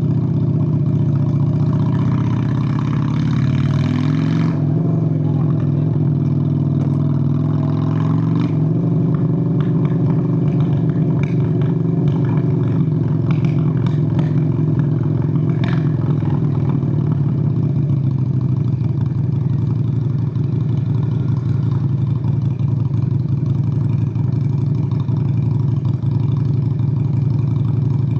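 Honda Steed VLX 600 (Shadow 600) V-twin motorcycle engine running under way. Its pitch rises and falls a few times in the first several seconds, then settles into a steady cruise.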